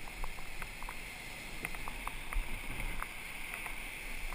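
Steady noise of water and wind around a surf boat, with low rumble from wind on the microphone and scattered short clicks and knocks.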